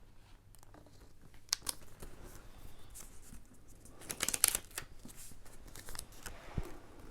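Paper and card being handled on a work surface: scattered rustles and small ticks, with a burst of rapid crackly ticks about four seconds in that is the loudest part, and a soft thump near the end.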